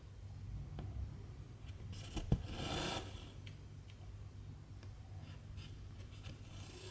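Small handling sounds of hand cross-stitching: faint ticks, then a sharp click and a half-second swish a little over two seconds in, then more faint ticks.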